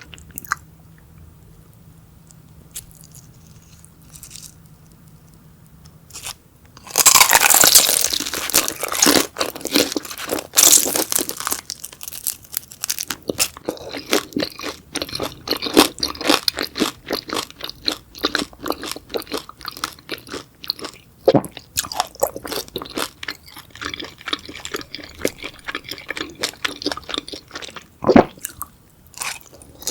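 Close-miked ASMR eating of crunchy beef intestines: after a quiet start, a loud crunchy bite about seven seconds in, then continuous crisp crunching and chewing with a brief pause near the end.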